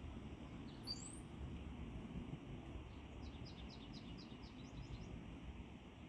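Songbird calling in a backyard: one high, rising chirp about a second in, then a quick run of about ten short, high, rising notes, about five a second, lasting some two seconds. A steady low background rumble lies underneath.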